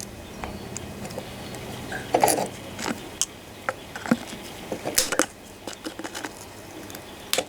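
Several sharp clicks and snaps, spaced irregularly, as the end of an inline fuel filter is cut off by hand.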